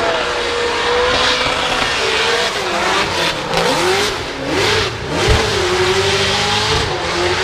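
Drift car engine at high revs during a competition run, its pitch rising and dipping again and again as the throttle is worked, over a dense rushing noise. A short low thump about five seconds in.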